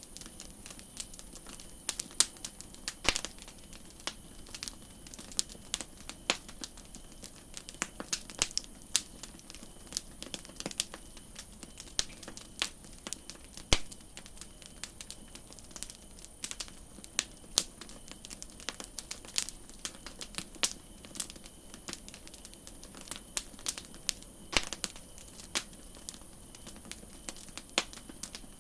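Campfire crackling: wood popping and snapping in irregular sharp clicks of varying loudness, a few louder pops standing out, over a soft steady hiss.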